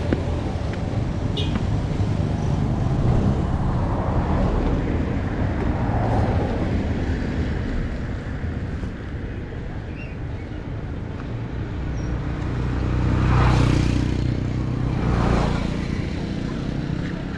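Road traffic with a steady low rumble. Two vehicles pass close, one about thirteen seconds in and another about two seconds later.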